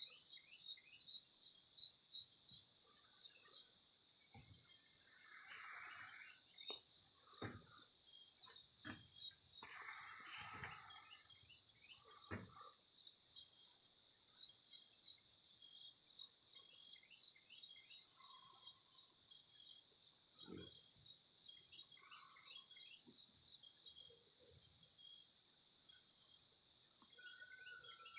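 Faint bird chirps: many short, high, scattered chips over a steady, high-pitched insect drone, with a few brief lower calls.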